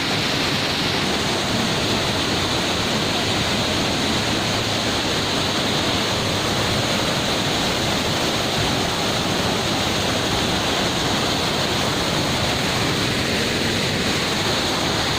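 Waterfall roaring steadily, a dense, unbroken rush of falling water.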